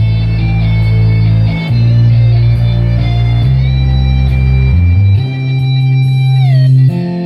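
Music with heavy, sustained bass notes played loud through a mid-bass speaker cabinet for a Thai parade sound truck, an 18-inch folded-horn box of about 800 watts, being sound-tested. The bass notes change every second or so, and a higher tone slides down near the end.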